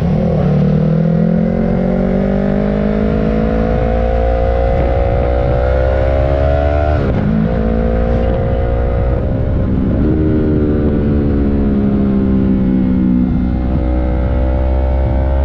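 Sport motorcycle engine pulling under acceleration, its pitch climbing steadily and dropping at gear changes about seven and ten seconds in, over a heavy rush of wind on the microphone.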